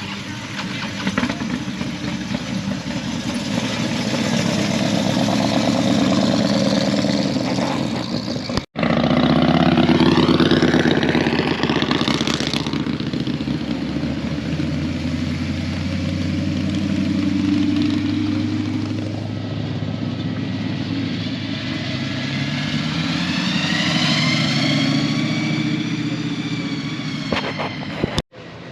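Cars driving out one after another, their engines revving and rising in pitch as they accelerate away. The sound breaks off abruptly twice and starts again.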